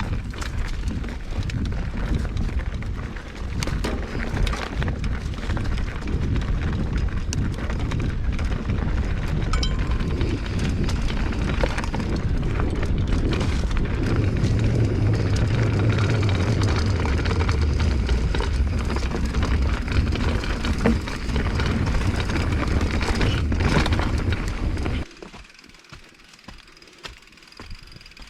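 Mountain bike riding a trail: wind buffeting the camera microphone with tyre noise and frequent clicks and knocks from the bike. It drops off suddenly near the end to a much quieter rattle.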